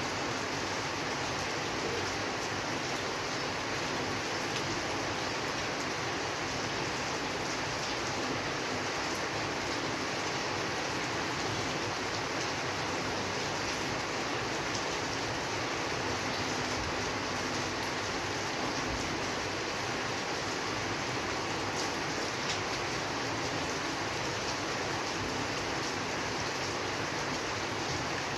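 Steady rain falling, an even hiss with faint scattered patter of drops.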